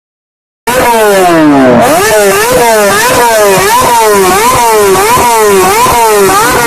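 Silence for under a second, then a small petrol engine running loud and being revved repeatedly. Its pitch drops at first, then climbs and falls about twice a second with each blip of the throttle.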